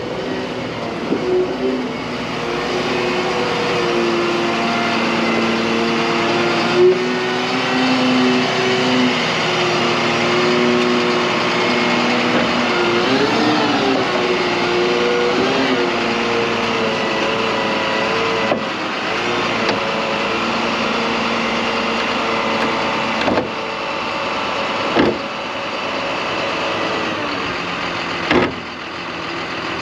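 Semi truck's diesel engine running under way, its pitch stepping up and down as engine speed changes, with a few sharp knocks or clunks scattered through.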